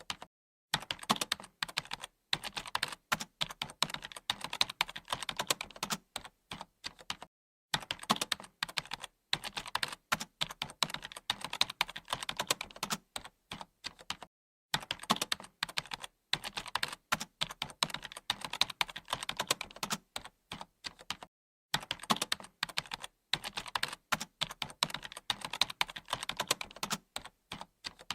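Computer keyboard typing: rapid runs of key clicks lasting several seconds, broken by brief pauses about every seven seconds.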